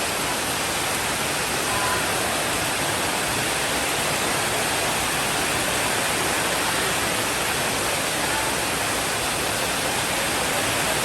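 Steady rain, falling as an even hiss with no distinct drops or thunder heard.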